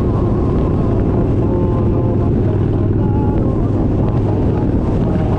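Kawasaki Vulcan 1700 Vaquero's V-twin engine running steadily while the motorcycle is ridden.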